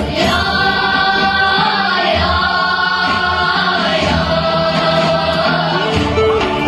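Song with several voices singing together over backing music, in long held notes that glide between pitches.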